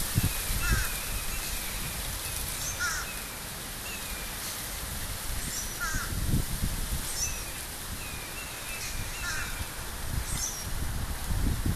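Short bird calls repeating every second or two, some mid-pitched and some very high, over a low uneven rumble.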